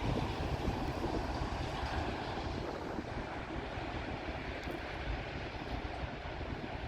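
Freight train's last cars rolling past on the tracks: a steady rumble of wheels on rail, slowly fading.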